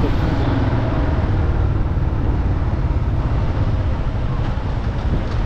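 Motorcycle running steadily at road speed, its engine low and constant under a rush of wind noise on the microphone.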